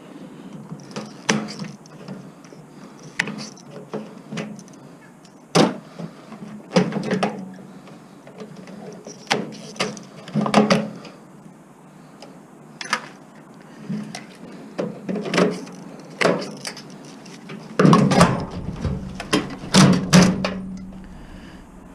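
Irregular clanks, clicks and rattles of hand tools on the metal parts of a microwave being stripped for scrap, with a busier run of clatter near the end.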